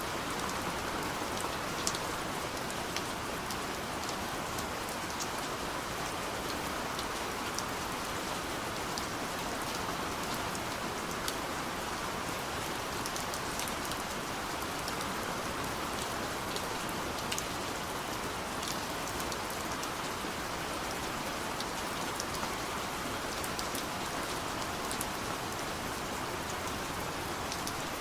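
Steady soft rain pattering on a window pane, a continuous hiss with many small drop ticks.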